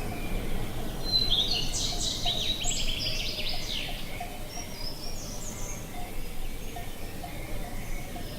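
A songbird sings a rapid, high trilled phrase lasting about three seconds, starting about a second in, followed by a few shorter high chirps. Underneath runs a steady low outdoor background noise with faint short notes repeating about twice a second.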